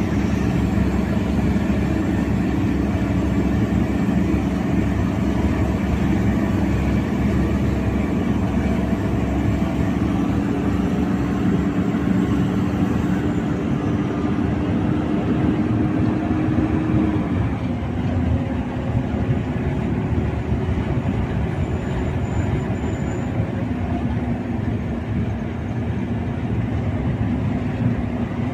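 Foton 460 truck's diesel engine droning steadily with the retarder braking it on a steep downhill grade. The drone slowly rises in pitch, then drops about 17 seconds in.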